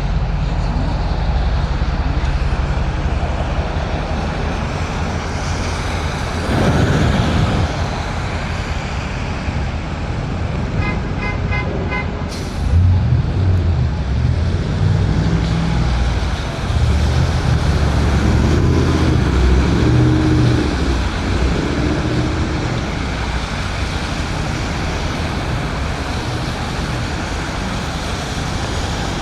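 Steady road and wind noise from riding an electric scooter through rain and snow on wet streets, with traffic around. A louder whoosh comes about seven seconds in, a short run of rapid beeps ends in a sharp click about twelve seconds in, and a low rumbling hum follows for several seconds.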